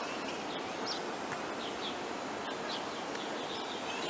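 Several short bird chirps over a steady outdoor hiss.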